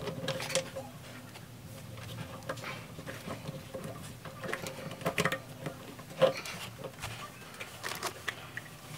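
Plastic drain pipe parts and fittings being handled and fitted together: irregular light clicks and knocks, the loudest a little past six seconds in, over a faint steady hum.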